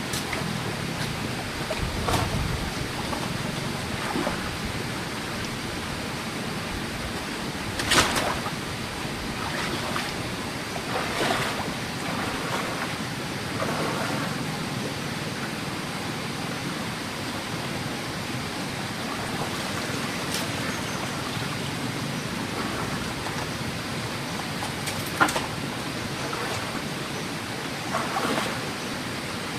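Steady rushing noise, water- or wind-like, with a few scattered sharp knocks, the loudest about eight seconds in.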